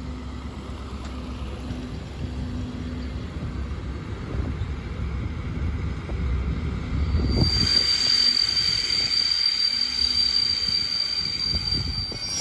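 Locomotive-hauled test train rolling slowly with a low rumble. About seven seconds in, a steady high-pitched squeal from the train sets in and holds.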